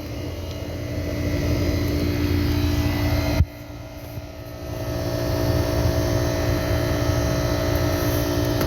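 Goodman central air-conditioner condenser running: the Copeland reciprocating compressor hum and the condenser fan, steady with a few fixed tones over a low rumble. About three and a half seconds in there is a knock and the sound drops suddenly, then comes back up over a second or two.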